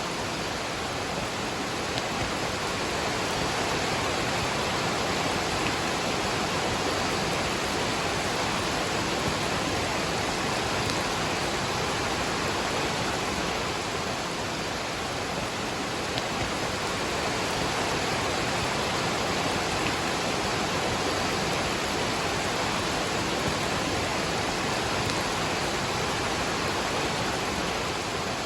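Waterfall rushing with rain falling: a steady, even roar of water that does not change.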